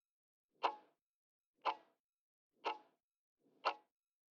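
Clock-style ticking sound effect, one tick a second, counting down the time given to answer a quiz question.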